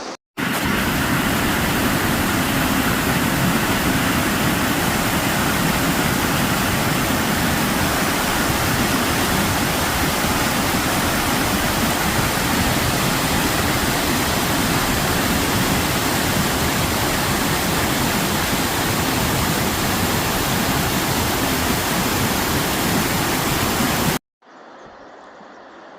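Waterfall pouring: a loud, steady rush of falling water that cuts in just after the start and stops abruptly near the end.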